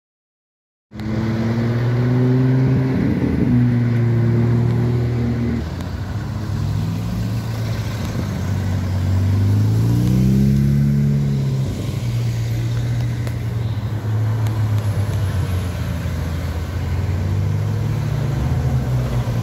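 Sports car engines running close by in slow traffic, starting suddenly about a second in. One car revs up in a rising sweep about eight to eleven seconds in, then the engines settle back to a steady low drone.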